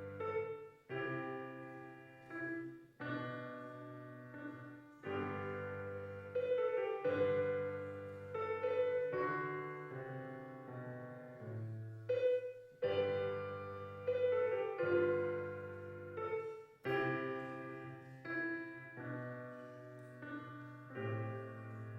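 Solo piano playing: chords with a low bass note struck in phrases of about two seconds, each note ringing and fading before the next phrase.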